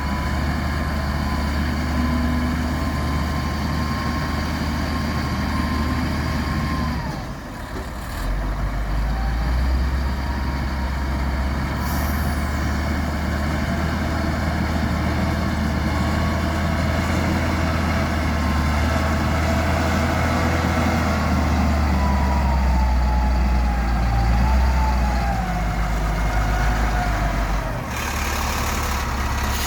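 Heavy diesel engine running steadily with a deep, low note that dips briefly about seven seconds in, and a thin whine that wanders in pitch above it.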